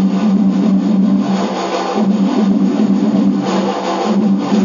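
Passenger train running at speed, heard from inside the carriage: a loud, steady hum and rumble.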